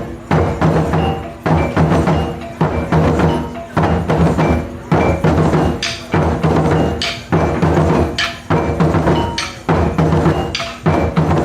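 Taiko drums played in a steady rhythm, a heavy low stroke about every second and a quarter, with sharp clicking strokes between the hits.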